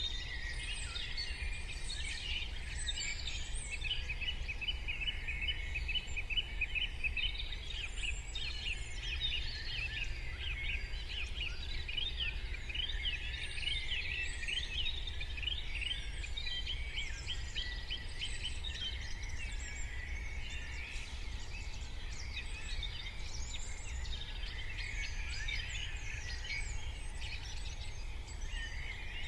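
Morning chorus of many songbirds singing at once: dense overlapping chirps, trills and quick rising and falling calls that never pause, busiest in the middle. Underneath is a steady low rumble.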